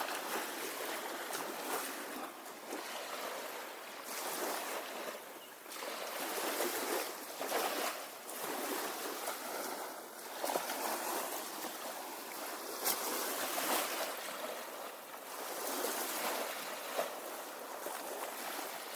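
Small waves washing onto a bayside beach: a steady rushing that swells and eases every few seconds.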